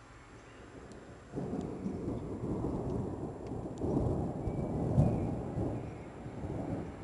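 A thunderclap rumbling during a rainstorm. It starts about a second in, swells to its loudest a few seconds later, then rolls away over steady rain.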